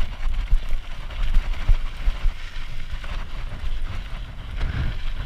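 Strong wind buffeting the microphone in a low, uneven rumble, with scattered crackling from a dirt bike's tyres rolling over loose sand and gravel on a downhill.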